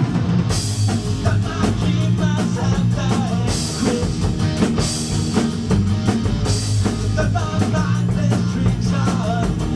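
A rock band playing: drum kit with repeated cymbal crashes over guitar and bass.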